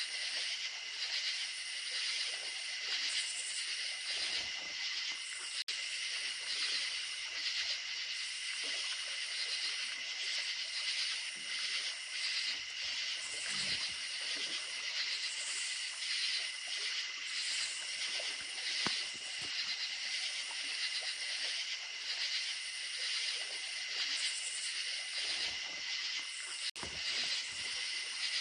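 Night chorus of crickets chirping steadily and rapidly, with a faint hiss of running creek water beneath.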